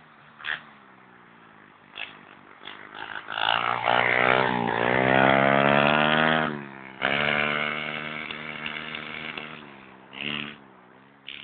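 Pit bike engine revving up and running hard, loudest in the middle. The revs cut off abruptly about two-thirds through, then the engine runs on and fades away, with a short burst of revs near the end.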